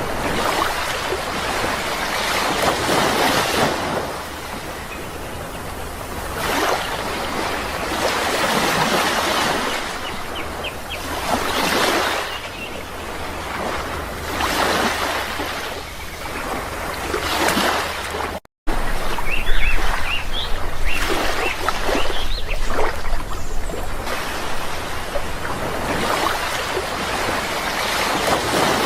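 Sea waves washing in, the surf noise swelling and easing every few seconds, with a few faint bird chirps. The sound cuts out for a split second about two-thirds of the way through.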